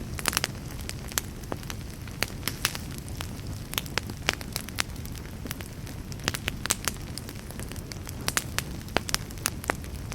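Fireplace fire crackling steadily over a low rumble, with frequent sharp, irregular pops and snaps.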